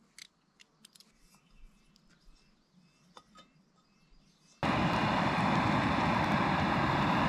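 A few light clicks and taps of a camp stove and pan being handled. About four and a half seconds in, a portable gas camp stove's burner comes on suddenly with a loud, steady rushing hiss of the flame.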